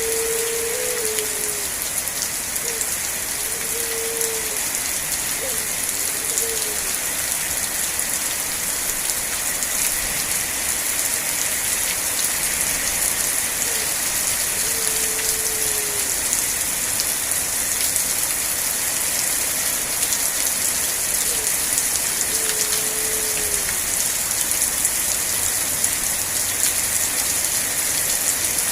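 Steady rain falling and pattering on surfaces as an even, unbroken hiss. A few short, slightly falling low notes sound now and then.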